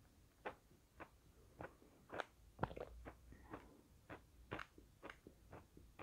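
Close-miked chewing with the mouth closed: faint, sticky, wet mouth clicks, about two a second.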